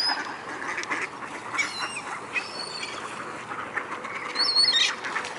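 A flock of ducks quacking, many short calls overlapping throughout, with a few short high chirps among them.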